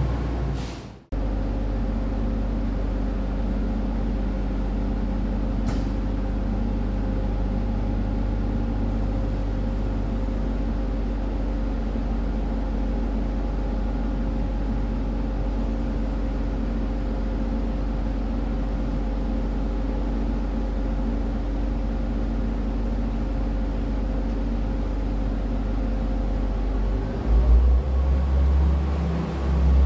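Train idling at a platform: a steady mechanical hum with several held tones. A short gap about a second in, and louder uneven low rumbling near the end.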